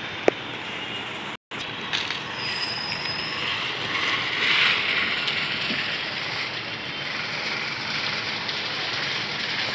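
Train running along the rails, with a steady rush of wheel-on-rail noise that swells about four to five seconds in. A brief thin wheel squeal about three seconds in.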